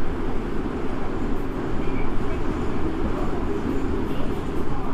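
Toei Asakusa Line 5300 series subway train running at a steady pace: a continuous rumble of wheels on the rails and running gear.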